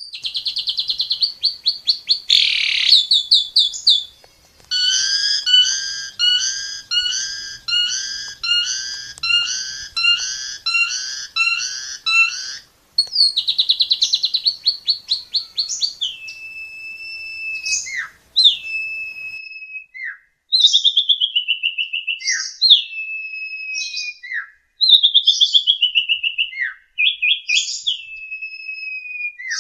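Asian pied starling (jalak suren) singing: a fast chattering run of notes, then one phrase repeated about ten times in a row, another quick chatter, and then a series of loud whistles that slide down in pitch, each ending in a sharp downward note.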